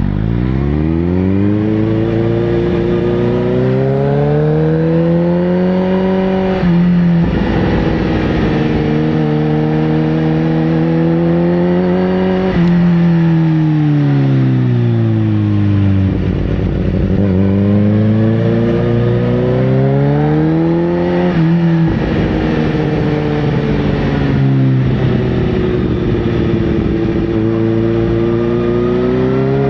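Sportbike engine accelerating hard through the gears: the pitch climbs, breaks briefly and drops at each upshift, then climbs again. About halfway through it eases off and the pitch falls, then it pulls up through the gears once more.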